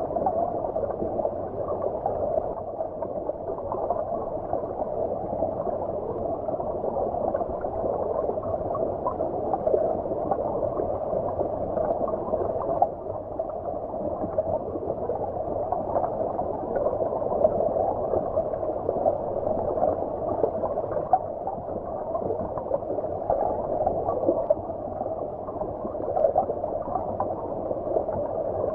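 Shallow stream flowing, heard from underwater: a steady, muffled gurgling with the high end cut away.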